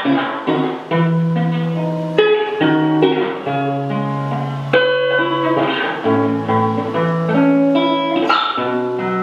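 Acoustic guitar playing an instrumental passage, chords struck every second or two and left to ring.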